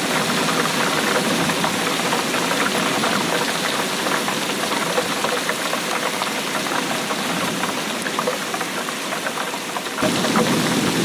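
Steady rainfall: a dense hiss of many small drops striking. About ten seconds in, the sound changes suddenly and becomes fuller and lower.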